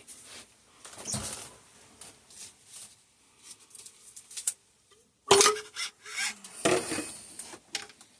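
Metal parts of a suspension fork clinking and knocking as the lower legs are worked off the stanchions, with two louder knocks about five and a half and seven seconds in, the first ringing briefly.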